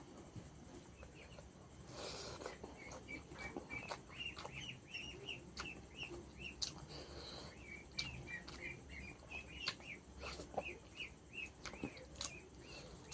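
A bird chirping over and over in quick short notes, about three a second, with small clicks and mouth sounds of someone eating by hand.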